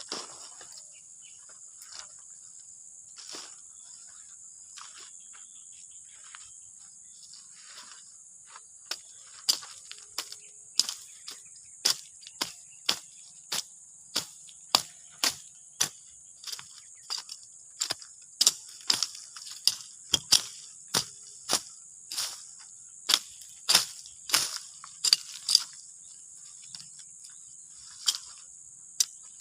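Steady high-pitched insect drone, like crickets or cicadas. About a third of the way in, a string of sharp, loud clicks or taps starts, roughly one a second at an irregular pace, and keeps going to the end.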